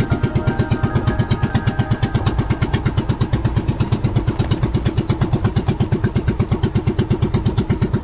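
Boat engine running steadily, with an even low pulse about ten beats a second.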